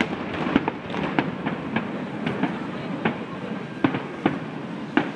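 Aerial firework shells bursting in a rapid, irregular volley of sharp bangs, several a second, over a continuous crackling din.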